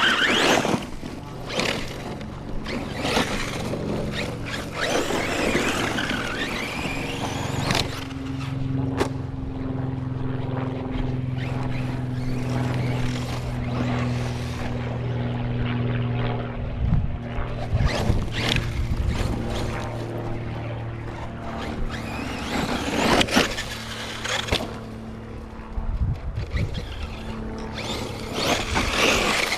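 Team Corally Kagama 6S electric RC truck driving, with repeated bursts of motor, tyres on dirt, and a few hard knocks. A steady low hum runs through the middle. The owner hears a drivetrain noise he can't place and suspects a diff cup.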